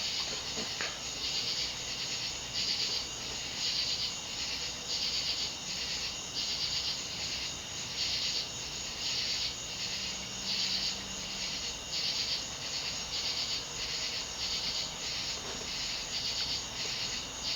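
A View Fan Codep 52-inch spinner ceiling fan running, its air noise a steady hiss that swells and fades in a regular pulse about one and a half times a second.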